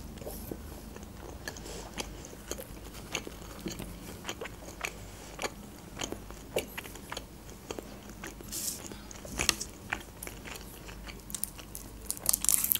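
Close-mic chewing of a mouthful of doner wrap, with scattered soft wet clicks and smacks. Near the end comes a quick run of crinkling as the foil is peeled off a processed cheese wedge.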